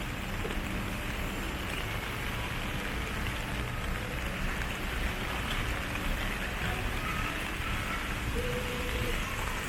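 Steady rain hissing on a city street, with a low traffic rumble underneath.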